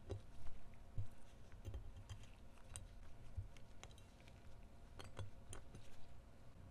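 Irregular light clicks and taps of small metal pistol parts being handled, over a low steady hum.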